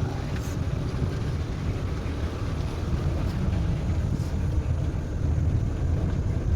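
Safari jeep driving along, its engine and road rumble running steadily, with wind buffeting the microphone.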